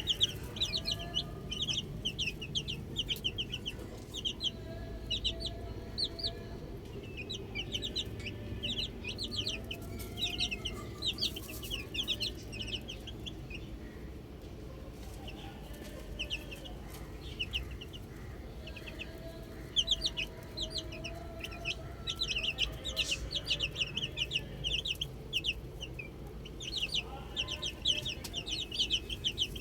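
Baby chicks peeping in rapid runs of short, high chirps that come and go, with a few quieter spells, and fainter lower clucking calls underneath.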